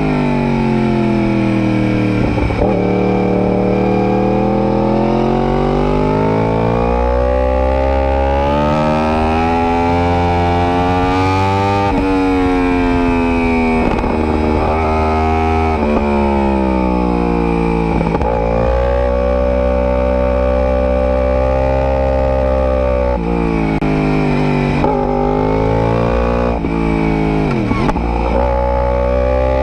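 Superbike engine pulling hard: its note climbs steadily, then drops sharply at upshifts about twelve and eighteen seconds in, then settles and falls off again in the last part.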